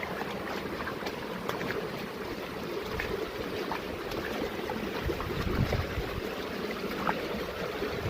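Rushing water of a mountain stream, a steady hiss, with wind buffeting the microphone in gusts in the second half.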